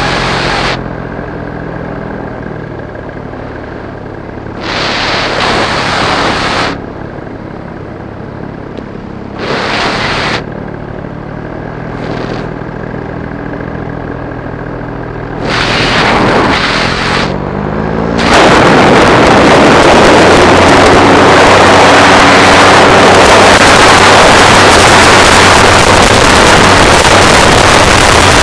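Paramotor engine and propeller running throttled back, its pitch drifting, with four short louder bursts of rushing noise; about two-thirds of the way in it gives way to a steady loud rush of engine and air noise.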